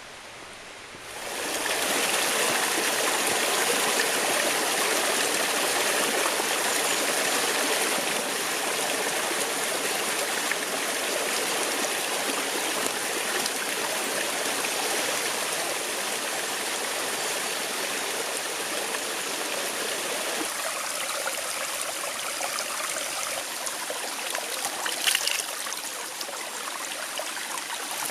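Steady rush of flowing water, a forest stream, starting abruptly about a second in, with a brief sharp clatter near the end.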